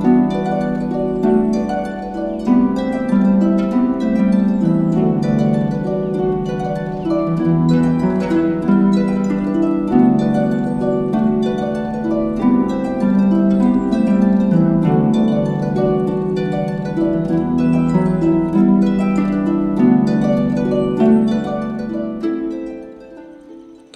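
Solo harp music, quick plucked notes and chords, fading out over the last couple of seconds.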